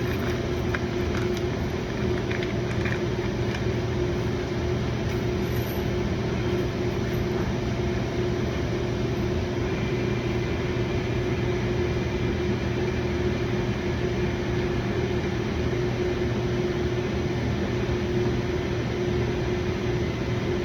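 A steady mechanical hum with a fixed-pitch drone over a lower rumble, unchanging throughout, with a few faint clicks in the first few seconds.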